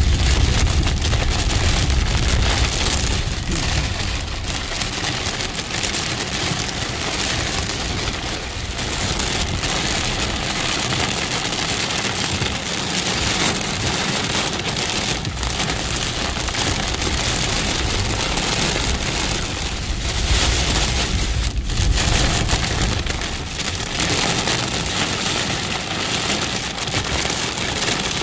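Heavy rain pouring down in a steady, dense hiss, with a low rumble in the first few seconds and again about twenty seconds in.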